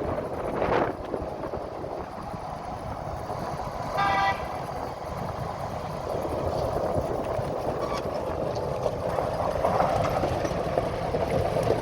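Vehicle engine running steadily as it drives, with one short horn toot about four seconds in.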